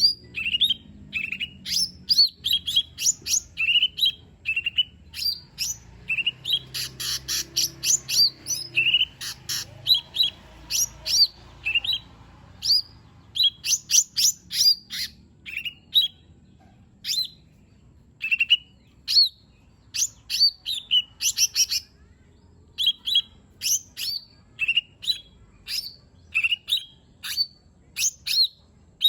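A cucak ijo mini (small leafbird) singing a fast, varied string of short chirps and sweeping whistled notes, with dense rapid runs about 7 and 14 seconds in.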